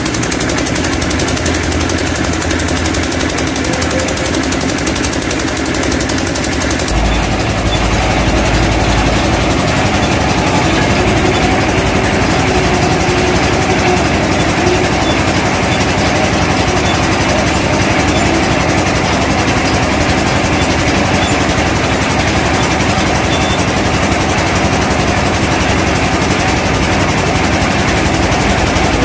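Heavy truck engine running steadily at idle, with a deeper low rumble for a couple of seconds about seven seconds in.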